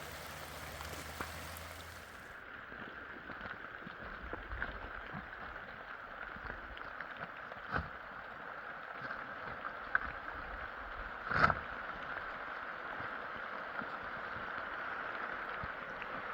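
Steady rain, with a few sharp clicks and one louder knock about eleven seconds in.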